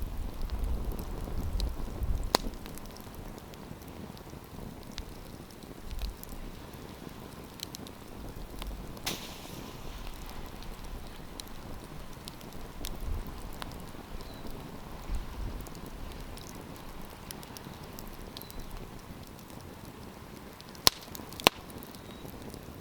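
Wood campfire crackling, with scattered small pops and an occasional sharp snap; the two loudest snaps come near the end, about half a second apart.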